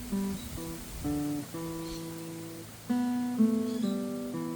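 Steel-string acoustic guitar played as single plucked notes in a B scale pattern, one note after another with some held and ringing. A quicker, louder run of notes begins about three seconds in.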